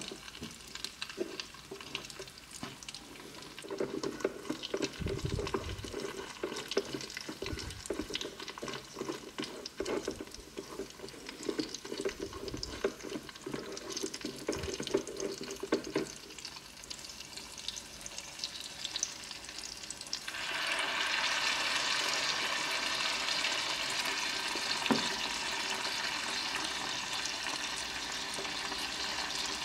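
Small wooden spatula stirring crab pieces in a miniature metal wok, scraping and knocking against the pan over frying sauce. About two-thirds of the way in, a steady, louder sizzle of the frying sauce takes over.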